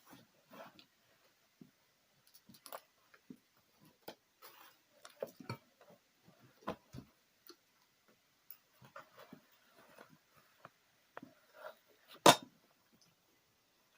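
Scattered small clicks, taps and rustles of someone moving about and handling things, with one sharp knock, the loudest sound, about twelve seconds in.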